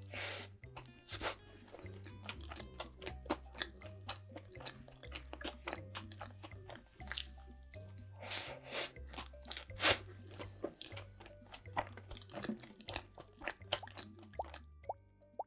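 Close-miked biting and chewing of a sandwich, with many crisp crunching bites, over background music with a stepping bass line. Near the end the eating stops and only the music remains.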